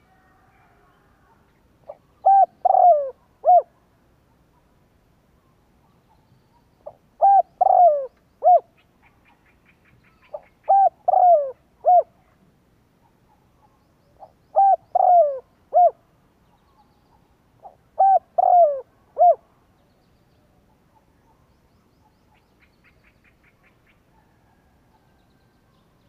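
Spotted dove cooing: five phrases a few seconds apart, each a quick run of three or four low coos that fall in pitch at the end.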